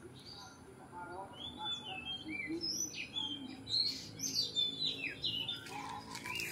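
Oriental magpie-robin (kacer) singing: a run of varied, quick whistled and chirping phrases that starts about a second and a half in.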